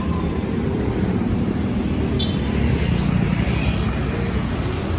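Steady road noise heard from a moving bicycle: a low rumble of wind on the microphone mixed with passing traffic. A short high tone sounds about two seconds in.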